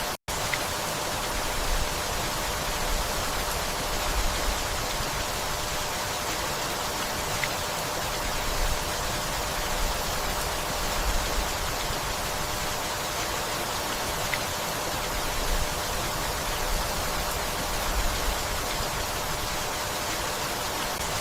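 Gentle rainfall, a steady even hiss, with a split-second dropout just after the start.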